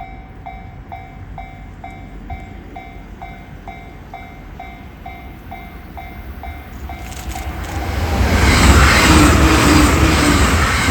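Japanese level crossing warning bell ringing about twice a second, then an electric train arriving and passing at high speed, its rushing noise building to loud about eight seconds in, with the motors giving a steady low whine.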